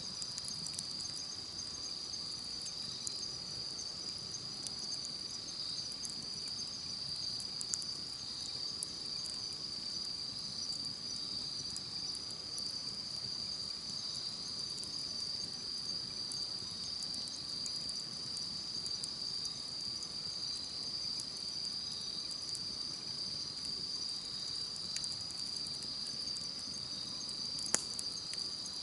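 A steady high-pitched insect chorus over a campfire crackling, with small pops scattered throughout and one sharper pop near the end.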